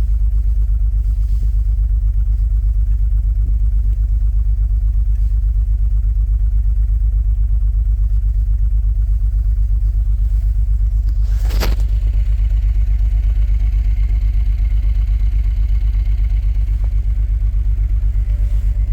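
A 1989 Dodge Ram D250's 3.9 V6 gasoline engine idling steadily, still cold after a start in −12° weather, with one sharp knock partway through.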